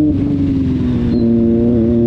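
Kawasaki ZX-25RR's 250 cc inline-four engine running at high revs under way. Its pitch slides down in the first half-second, then holds steady, with a brief dip near the end.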